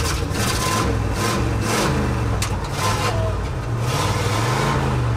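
1974 Ford F-350's 460 V8 engine running as the truck is driven, heard from inside the cab, its pitch rising and falling a few times with some clicks and rattles. The owner says the engine needs a head gasket.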